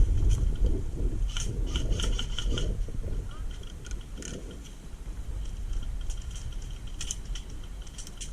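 Irregular rustling and scraping close to the microphone over a low rumble, with scattered light clicks, as of a person moving through brush with their gear.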